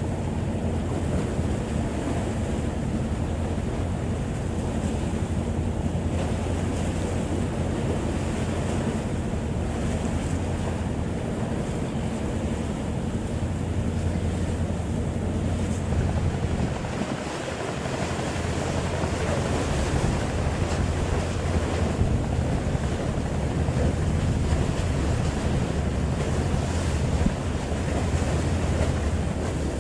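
Wind buffeting the microphone and sea water rushing, over a steady low drone of a boat engine.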